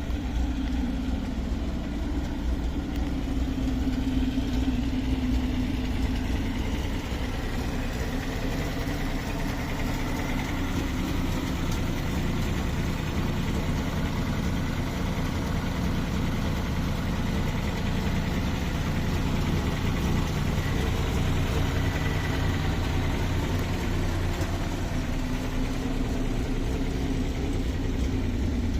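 1949 Fiat 1500 E's six-cylinder engine idling steadily, warmed up to operating temperature.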